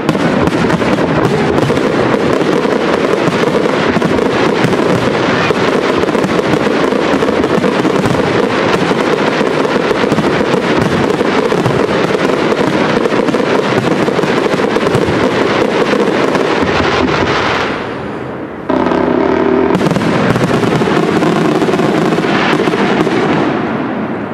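Professional fireworks display: a dense, continuous barrage of aerial shell bursts with crackling. It thins out briefly about 17 seconds in, picks up again, and dies away near the end.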